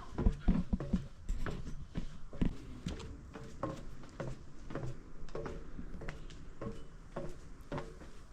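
Footsteps going down a steep set of metal stairs, an uneven string of knocks about every half second.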